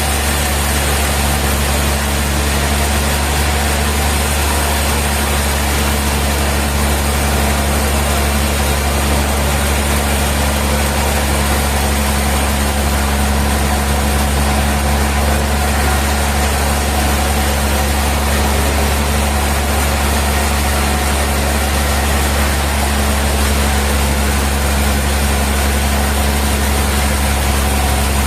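Sawmill machinery running steadily: a constant low engine-like hum with an even hiss above it.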